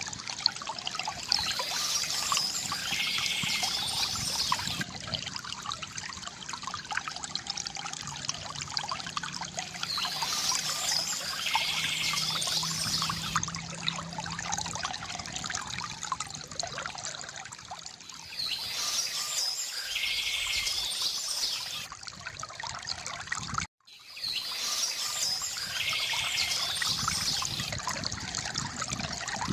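Water trickling and pouring steadily from a bamboo fountain, with bursts of birdsong recurring about every eight seconds. The sound drops out for an instant a little after the middle.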